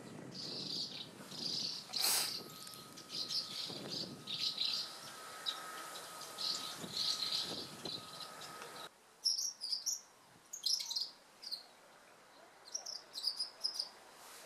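Asian house martins calling in short, repeated twittering chirps, coming in clusters. A faint steady tone and background noise stop abruptly about nine seconds in, and the chirps go on over a quieter background.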